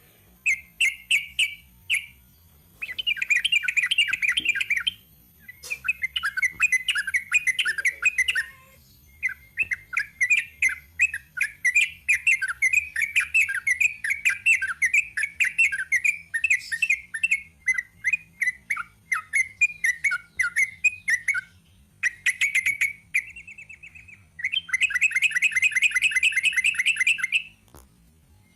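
Sooty-headed bulbul (trucuk) singing in bursts of fast, chattering notes a few seconds long, with one unbroken run of about twelve seconds midway.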